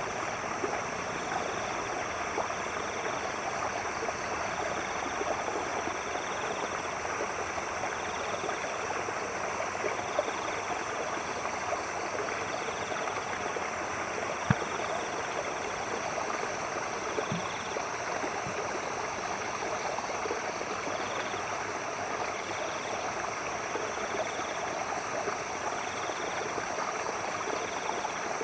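Stream water running and splashing steadily, with a night animal's short high chirps repeating about once a second. One sharp click about halfway through.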